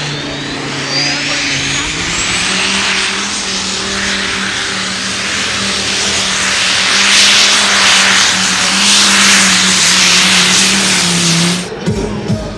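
A 4,500-hp tractor-pulling tractor's engine running hard with big twin turbochargers. A turbo whine rises steeply over the first few seconds and then holds high, over a loud rushing noise and a steady engine note. The noise grows louder about seven seconds in and cuts off suddenly near the end.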